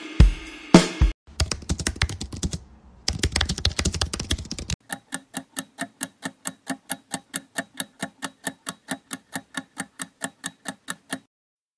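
Two heavy thumps, then a keyboard-typing sound effect of quick irregular clicks for about three and a half seconds with a short pause in the middle. A countdown timer's clock tick follows, about five even ticks a second for some six seconds, then stops shortly before the end.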